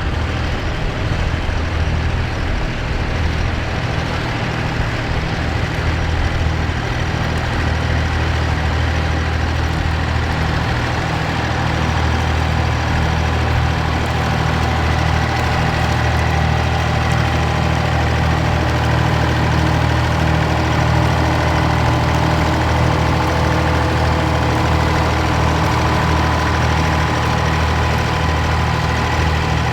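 Massey Ferguson tractor engine running steadily, getting a little louder about twelve seconds in.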